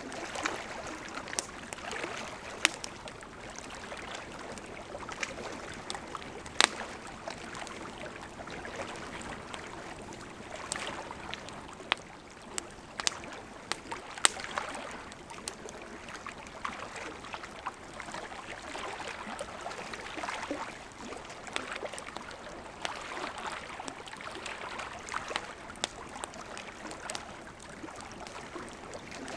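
Campfire of burning wood: a steady hiss of flames with frequent small crackles and pops, and a few louder sharp snaps scattered through.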